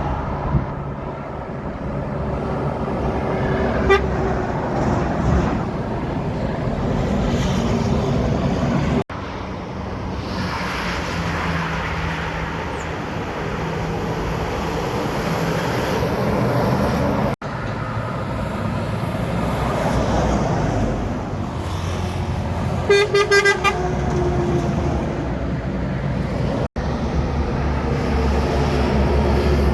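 Heavy trucks running past on a highway, with steady engine and tyre noise and a few abrupt cuts between passes. About two-thirds of the way through, a truck horn gives a few quick toots; a shorter, weaker toot comes near the start.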